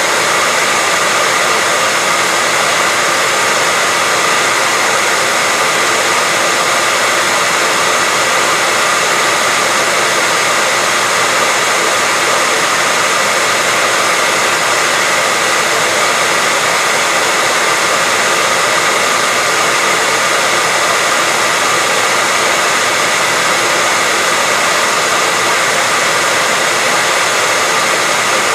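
Hair dryer running steadily, an even rushing hiss of blown air with a faint high whine from the motor, unchanging throughout.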